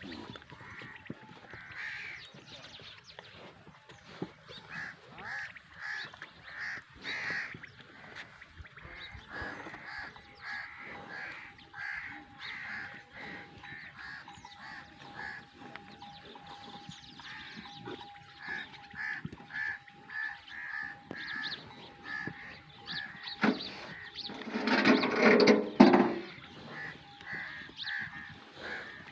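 Birds calling over and over in short repeated calls, with one louder, longer sound of about two seconds near the end.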